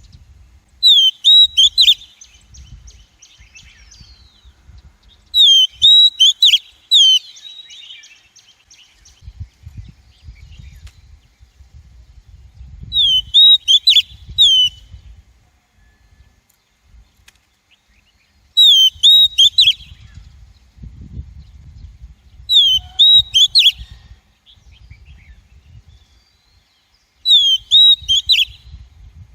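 Female Oriental magpie-robin calling: six short bursts of quick, repeated sharp notes, spaced a few seconds apart, with a faint low rumble in between. It is a lure call, used to draw in wild magpie-robins.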